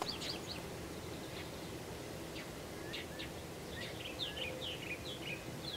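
Birds chirping, many short scattered calls, over a steady low outdoor hiss.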